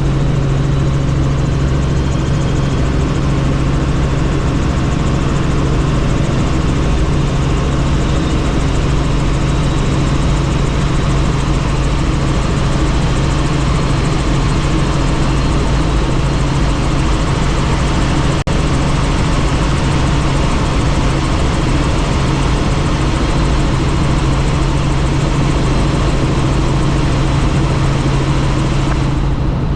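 Helicopter running: a loud, steady low hum from the rotor and engine over a constant rush of noise.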